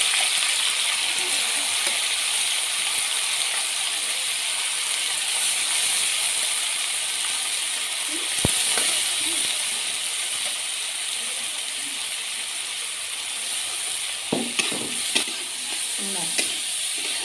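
Red lentils (masoor dal) sizzling steadily as they fry in hot oil in a metal wok, with one sharp clink about eight and a half seconds in.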